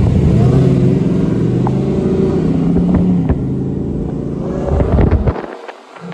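V8 car engine at full throttle in a drag race, climbing in pitch and then holding a steady drone. It falls away sharply about five seconds in as the throttle comes off.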